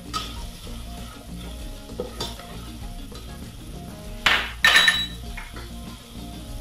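Chopped onion and garlic with flour sizzling softly in hot olive oil in a stainless steel pot, stirred with a silicone spatula. About four and a half seconds in come two sharp clinks, the loudest sounds.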